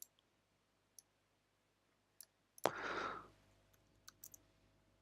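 A few scattered computer mouse clicks, sharp and sparse, with a short breathy noise burst about two and a half seconds in.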